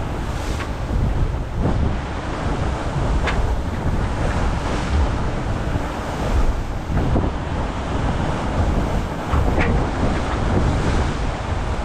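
Wind buffeting the microphone over the steady rush of water and waves along a racing yacht sailing at sea, with a few brief, sharper hits.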